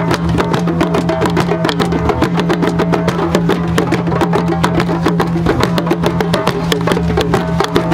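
Drum circle of hand drums playing a fast, busy rhythm with many sharp strokes a second, over a steady low held drone.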